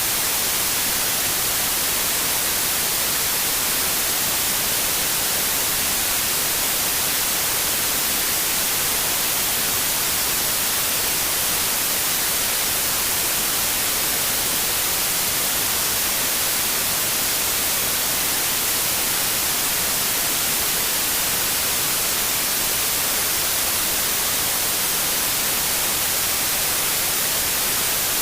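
Steady white noise: an even, unbroken hiss at a constant level, brightest in the high end.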